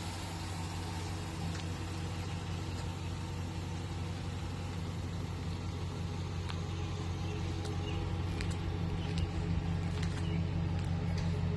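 2006 Chevrolet 1500 pickup's engine idling steadily, growing slightly louder toward the end, with a few faint clicks.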